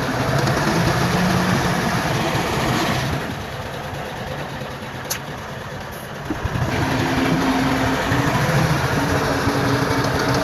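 Heavy diesel earthmoving machinery running, the engines rising and falling in pitch, with a quieter stretch in the middle and a single sharp click about five seconds in.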